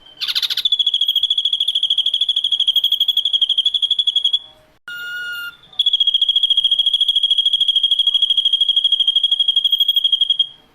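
Ashy drongo singing long, rapidly pulsing trills on one steady high pitch: two trills of about four and five seconds, broken by a short burst of notes at other pitches.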